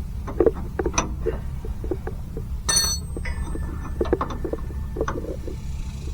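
Metal hand tools clicking and clinking while a seized brake line fitting is worked on, with one ringing metal clink a little before the halfway point, over a steady low hum.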